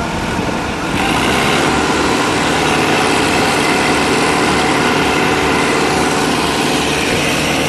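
Diesel tractor engines running steadily under load, louder from about a second in.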